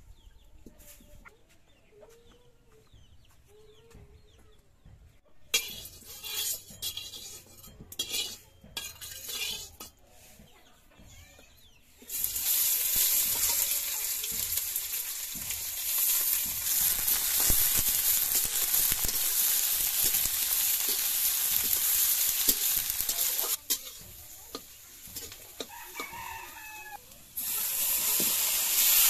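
Hot oil sizzling in an iron wok over a wood fire. A steady hiss starts suddenly a little before halfway and falls away after about eleven seconds. Near the end a louder sizzle comes as sliced brinjal and mushrooms are tipped into the oil, and shortly before that a rooster crows.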